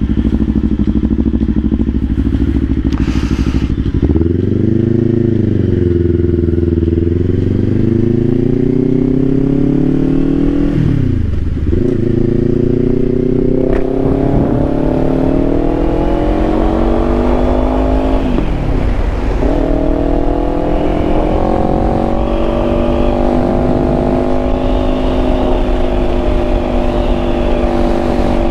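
Kawasaki Ninja 500 parallel-twin engine under way: it runs steadily, then pulls with its pitch climbing. It drops sharply on upshifts about 11 and 19 seconds in, and settles to a steady cruise.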